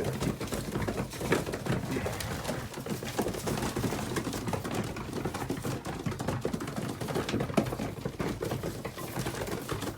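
Pigeons pecking grain, a rapid, irregular patter of small beak taps and clicks.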